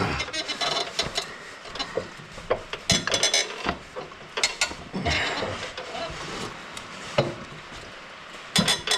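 Hand-tool work on a Toro TimeCutter mower deck's blade spindle: scattered metal clicks, knocks and scraping, with a sharp pair of knocks near the end. The wrench is turning the whole spindle bearing instead of loosening the blade nut.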